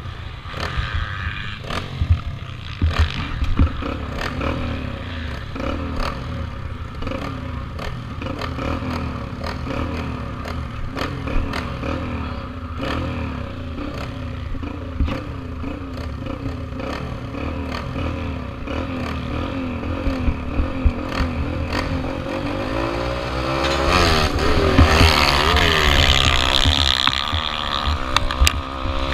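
Small dirt bike engine running at varying revs, with frequent rattling knocks and scrapes over rough ground. Near the end it gets louder, its pitch swooping up and down as the throttle is worked, with wind noise.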